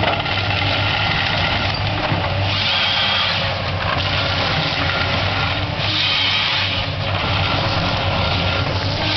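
Komatsu PC228 forestry harvester running with a steady diesel engine hum. Twice, for about a second, a higher whine and hiss rises over it as the 370E harvester head works.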